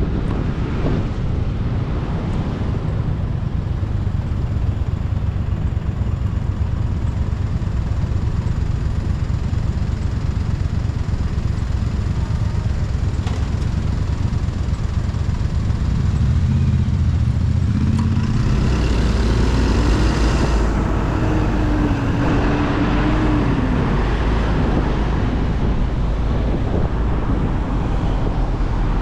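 Motorcycle riding on a road, with steady engine rumble and road and wind noise. Past the middle an engine note rises, holds briefly, then falls, as when accelerating and easing off.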